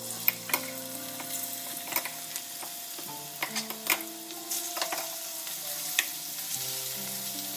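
Marinated prawns sizzling as they fry in hot oil in a nonstick frying pan, a steady hiss with a metal spoon clicking against the pan every second or so.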